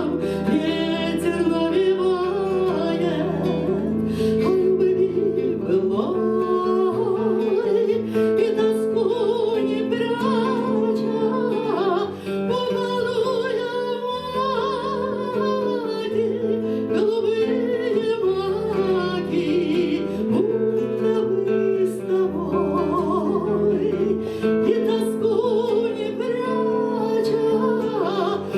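A voice singing a Gypsy romance with vibrato, accompanied on acoustic guitar.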